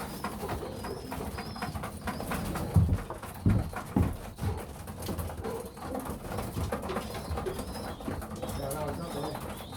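Racing pigeons cooing in the loft, with a few loud low thumps about three to four seconds in.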